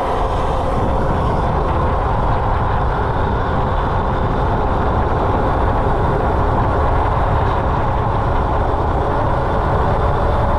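Steady vehicle noise: a continuous low rumble and rushing noise with a faint steady hum running through it, unchanging in level.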